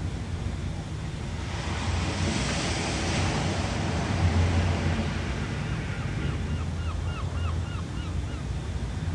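Ocean waves on a shore with a low, steady surf rumble; a wave breaks and washes in about a second and a half in, swelling and then fading. In the second half a bird gives a quick series of short, hooked chirps, two or three a second, for about three seconds.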